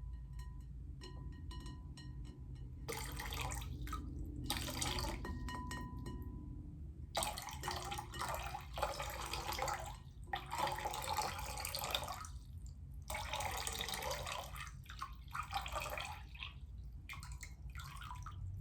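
Water dripping a few times, then poured and splashed in about five separate runs of a second or more each, with short pauses between them.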